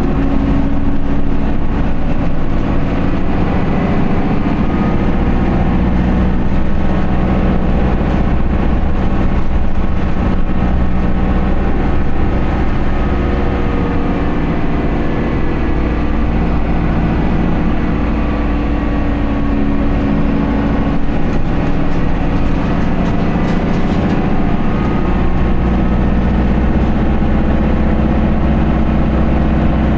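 Isuzu Erga QDG-LV290N1 city bus's four-cylinder diesel engine running, heard from inside the bus, a steady drone whose pitch drifts slightly up and down.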